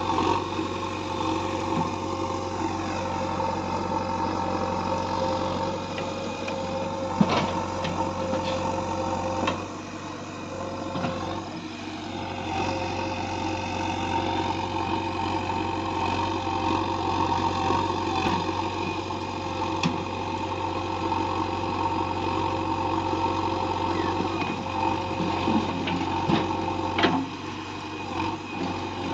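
Diesel engine of a heavy work machine running steadily, with a few sharp knocks, one about seven seconds in and another near the end.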